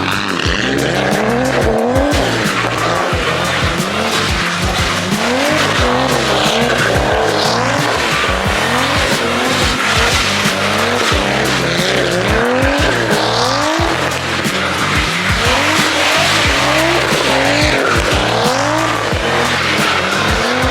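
Car engine revved up and down over and over as the car slides, with the tyres skidding on the wet road. Music with a steady beat plays underneath.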